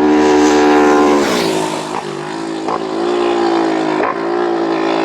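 Racing motorcycle engine at high revs, its pitch dropping as it passes about a second in, then climbing again through three quick gear changes as it accelerates away.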